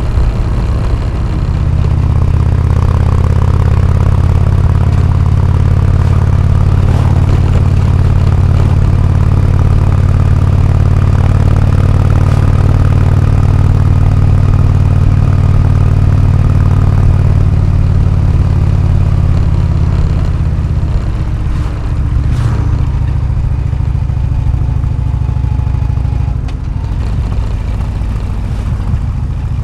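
Harley-Davidson Road King Classic's Twin Cam 103 V-twin running through an AMC HD4 exhaust. It holds a steady, loud note under throttle for most of the stretch, then eases off about twenty seconds in and drops once more near the end.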